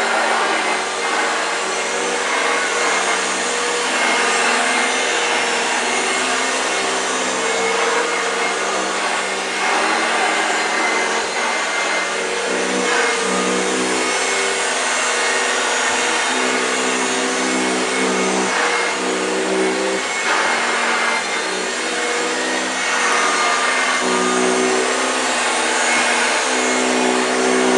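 1965 Hoover Junior 1334A upright vacuum cleaner running continuously, its motor hum rising and falling in pitch every couple of seconds over a steady airflow hiss.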